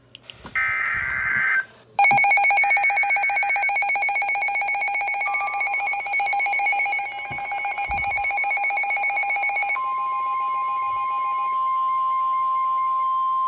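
Emergency alert tones ahead of a severe thunderstorm warning. A short burst of digital data noise comes about half a second in, then a harsh, buzzing, pulsing alarm tone lasts about eight seconds, then a steady single-pitched alert tone holds until the voice message begins.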